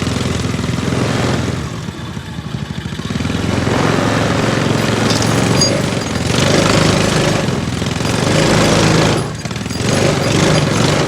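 Small engine of a lawn tractor running and driving, a rattly drone that eases off about 2 seconds in and again near the end and then picks back up.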